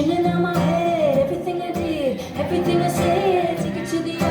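Live pop-rock performance: a woman singing over a full band, with guitar, bass and drums.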